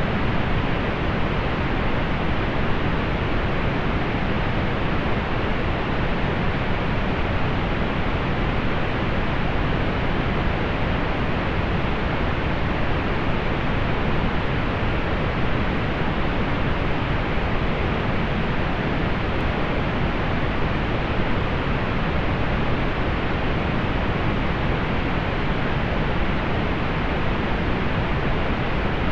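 Steady pink noise: an even, unbroken hiss, dulled in the highs.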